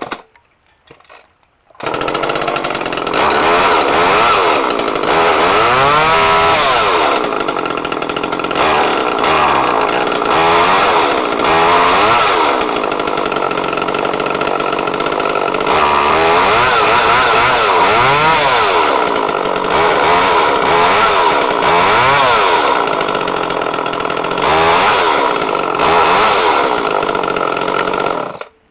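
Homelite XL two-stroke chainsaw starting about two seconds in and running, revved up and down again and again, then cut off just before the end.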